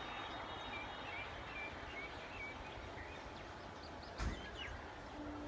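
Birds chirping over a steady outdoor background hiss: a run of short repeated chirps, then a few quick falling whistles, with a brief thump about four seconds in. A short steady hum starts just before the end.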